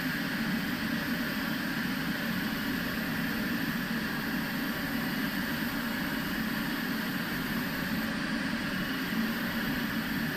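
Steady cockpit noise of a taxiing Boeing 777, its engines at idle, a constant even rumble and hiss that comes up suddenly and then holds level.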